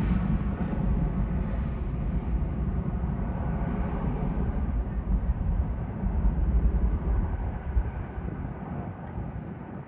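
Jet engines of an Airbus A321-231, IAE V2500s, at takeoff power: a deep steady rumble that slowly fades as the aircraft climbs away, its higher sound dying away first.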